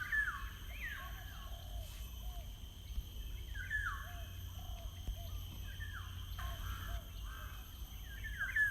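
Birds calling, repeated short calls that fall in pitch, coming in clusters about a second in, in the middle and near the end, over a steady low rumble of background noise.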